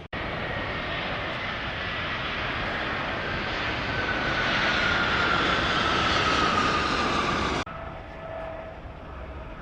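Jet airliner's engines running as it passes close by. The roar builds, with a high whine that slowly falls in pitch, then cuts off suddenly about three-quarters of the way through, leaving quieter background noise.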